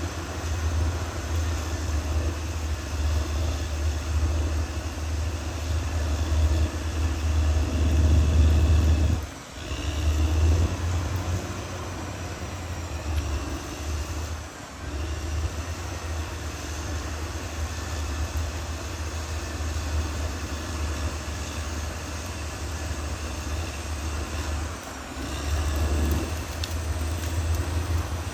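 Caterpillar D6R XL bulldozer's diesel engine running with a deep, steady drone, swelling louder about eight seconds in, with three brief drop-outs.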